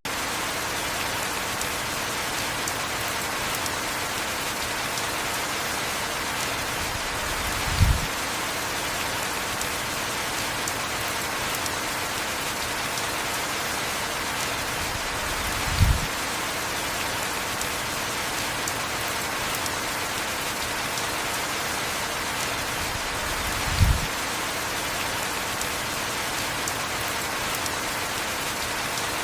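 Steady heavy rainfall, an even hiss with no change in strength. Three times, about eight seconds apart, a short low thump stands out above it.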